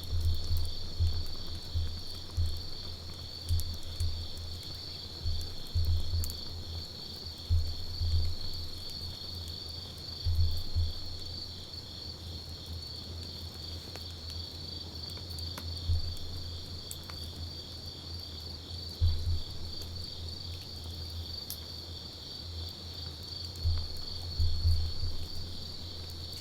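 Campfire burning with scattered small crackles and pops over a steady chirring of crickets. Irregular low rumbling surges come and go every second or two and are the loudest sound.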